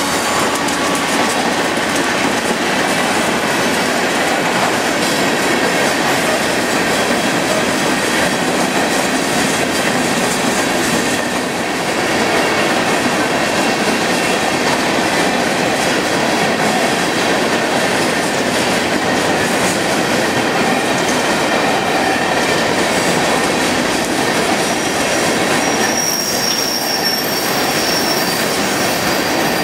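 Freight train cars rolling past close by: a loud, steady roar of wheels on rail with a faint clickety-clack. A thin, high wheel squeal comes in near the end.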